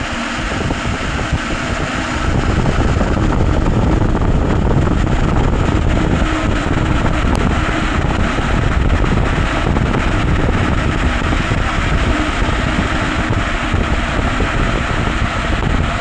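A motor running steadily, getting louder about two and a half seconds in.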